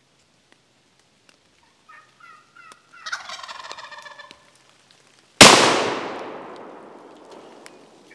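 A wild turkey gobbler gobbles, a rapid rattling call lasting about two seconds. About a second later a single loud shotgun shot goes off and rolls away in a long echo as the bird is killed.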